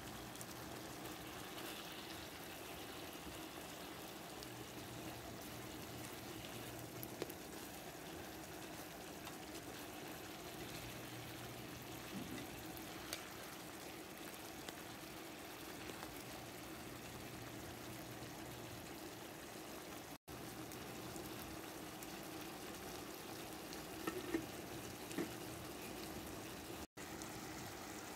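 Marinated chicken pieces frying in a pan of oil and their own bubbling juices: a steady sizzle, with a few light knocks now and then.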